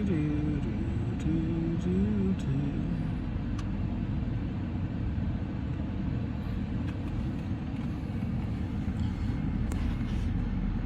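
BMW N55 turbocharged straight-six idling steadily with a low, even rumble, a few light clicks over it, while the oil level is being checked after an oil change.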